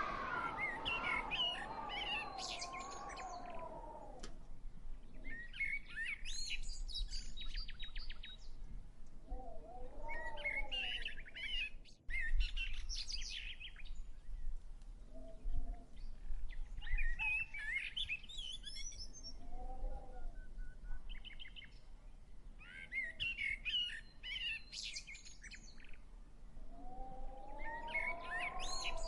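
Songbirds chirping and twittering in short, quick high-pitched bursts every few seconds, with slower, lower rising-and-falling tones recurring between them.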